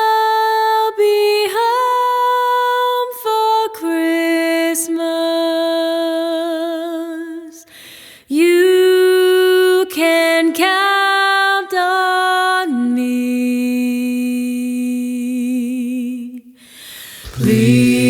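A single high voice sings a slow, wordless a cappella intro, holding long notes with vibrato in phrases a few seconds long. Near the end, lower voices come in underneath in harmony.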